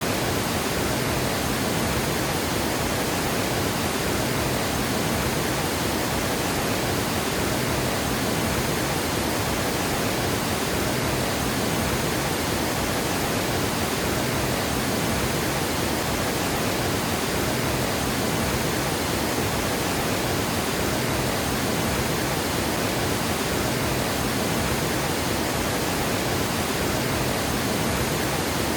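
Water pouring over a dam's spillway: a loud, steady rush of falling water with no change.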